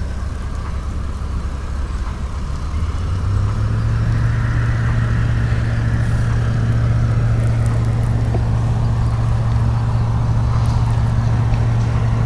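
A motor running with a steady low hum that steps up in pitch and gets louder about three and a half seconds in, then holds steady.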